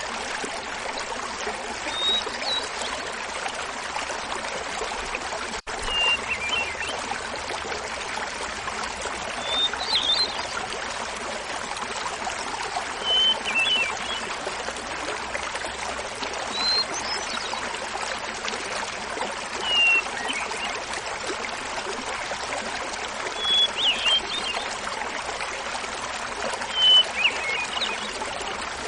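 Small mountain waterfall splashing steadily, with a hermit thrush singing short, flute-like phrases about every three seconds over it.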